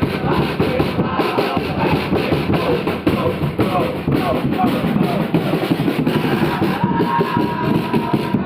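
Football supporters chanting together to beating drums, a loud continuous mass of voices and drum strokes.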